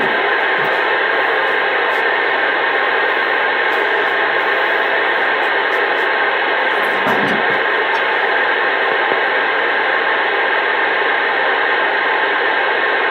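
CB radio receiver with the squelch open, putting out a steady, loud rush of static between transmissions. There is a brief low murmur about seven seconds in.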